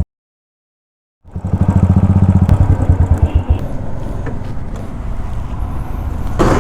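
Royal Enfield Continental GT 535's single-cylinder engine idling through a loud aftermarket twin exhaust, a fast, even thumping. It cuts out for about a second, comes back strongly, then softens to a steadier rumble after about two seconds.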